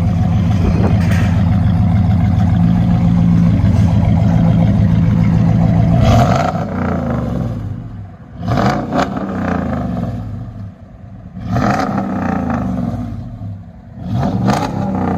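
A 2010 Dodge Ram 1500's 5.7-litre HEMI V8 through a 3-inch dual exhaust with a Black Widow Race Venom muffler and 5-inch tips, held at high revs for about six seconds, then blipped three times, each time falling back toward idle. The engine is being revved for a decibel reading, which peaked at 108.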